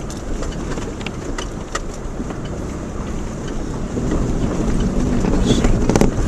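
Subaru Outback driving over a rough dirt road: a steady rumble of engine, tyres and suspension, with scattered knocks and rattles, growing louder about four seconds in.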